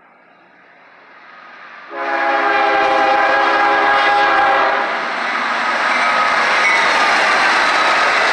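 Diesel freight locomotive air horn sounds one loud chord about two seconds in, held for about three seconds. Then the lead GE locomotives of a CSX intermodal train pass close by, their engines running with a steady noise of wheels on rail.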